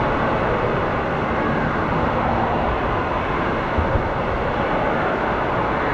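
Steady rushing of water through an enclosed body-slide tube as a rider slides down it, with a couple of small knocks about four seconds in.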